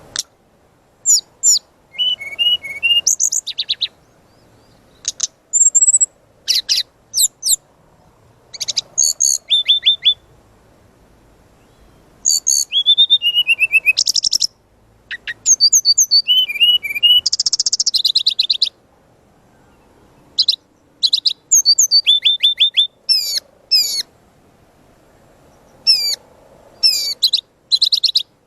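Brown-chested jungle flycatcher (sikatan rimba dada coklat) singing a full, busy song of quick high chirps, whistled notes and short rattling trills, in stop-start phrases with brief pauses between them.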